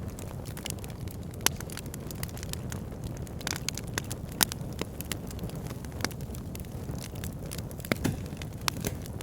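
Backyard fire pit fire crackling over a steady low rumble, with frequent small crackles and sharper pops about a second and a half, four and a half, and eight seconds in.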